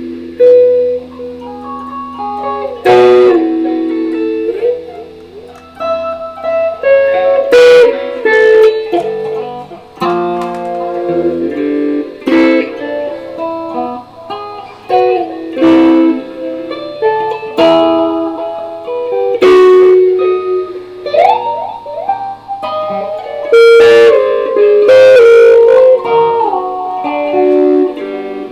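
Electric guitar played solo, plucked single notes and chords with a few sliding notes.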